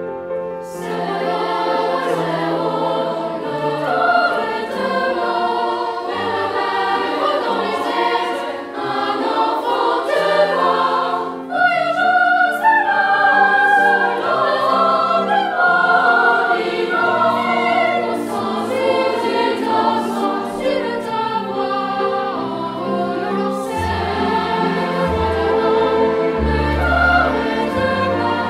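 Background music: a choir singing with instrumental accompaniment, with deep bass notes entering near the end.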